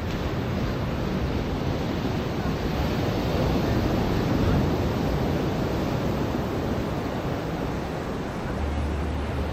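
Ocean surf washing onto a beach: a steady rush of water that swells to a peak about halfway through and eases off again. A low rumble joins near the end.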